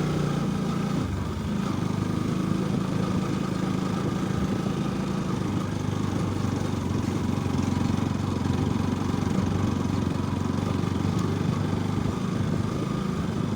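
Sport motorcycle's engine running at low, steady revs while the bike is ridden slowly on a slippery dirt road. The engine note drops about a second in, then holds steady.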